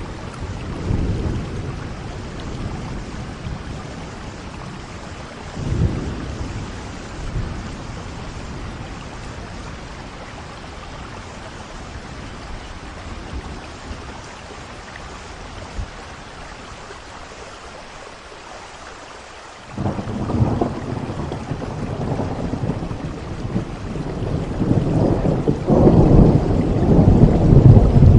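Steady rain with rolling thunder. Faint rumbles come early, then a loud rumble of thunder breaks in suddenly about two-thirds of the way through and grows louder near the end.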